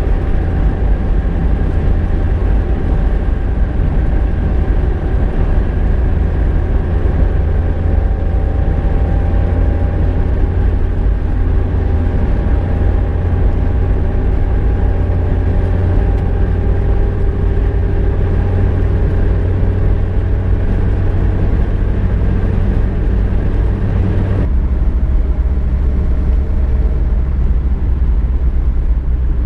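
A car driving, its engine and road noise making a steady, heavy low rumble with faint engine tones drifting slowly in pitch. The sound changes abruptly a little over 24 seconds in.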